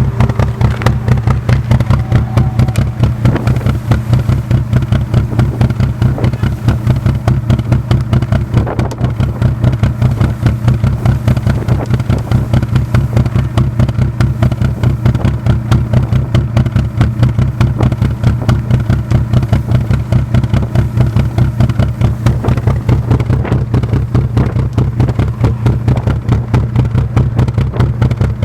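Seat Ibiza 1.9 SDI four-cylinder diesel running at a steady idle through a silencer-less stainless straight-pipe exhaust, giving a loud, even, pulsing beat that holds steady without revving.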